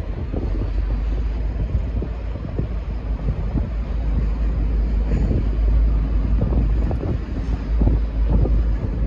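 V/Line N class diesel-hauled passenger train pulling out of the station: a deep, steady rumble, with wind buffeting the microphone.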